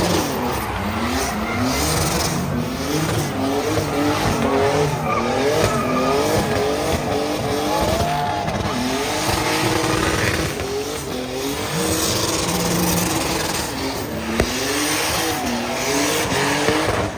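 Car engine revved hard again and again in quick rising-and-falling sweeps, with tyres squealing as the car does a burnout or drift.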